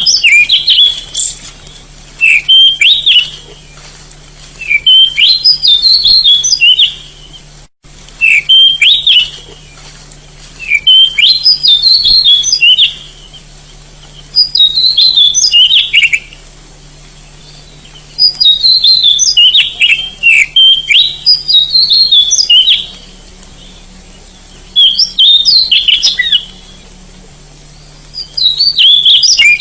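Oriental magpie-robin (kacer) singing loud phrases of quick, varied high notes, each a second or two long, repeated every few seconds with short pauses between them. A faint steady low hum runs underneath.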